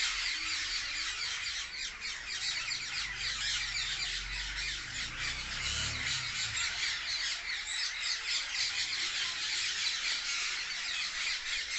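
A flock of parrots in a tree squawking and screeching continuously, many shrill calls overlapping, with a faint low rumble in the middle.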